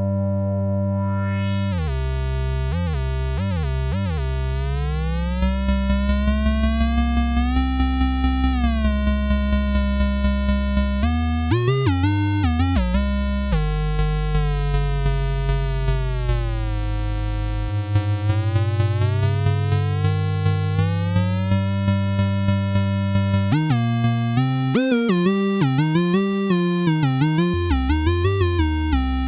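Behringer K-2 analog monophonic synthesizer (an MS-20 clone) holding a low tone while a resonant filter sweep glides slowly up and down through its harmonics. From about five seconds in, the sound pulses about three times a second, and near the end the pitch wobbles quickly.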